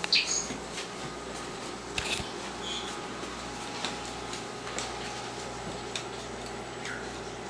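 Pet parrot playing: sharp clicks and taps scattered through, with a few short high chirps, the first and loudest right at the start and a falling one near the end, over a steady low hum.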